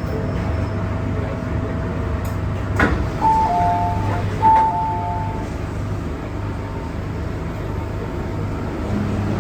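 MTR M-Train standing at a platform, its equipment humming steadily. A couple of clicks come about three seconds in, then the two-note electronic door chime, high note then low note, sounds twice as the doors open.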